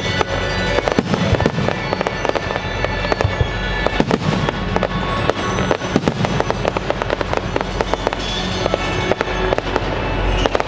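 Dense barrage of aerial firework explosions, many bangs and crackles a second without let-up, over the show's music soundtrack.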